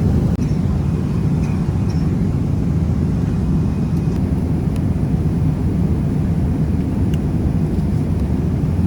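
Steady cabin noise of a Boeing 777 airliner in flight: a loud, even low rumble of engines and airflow, with a few faint ticks.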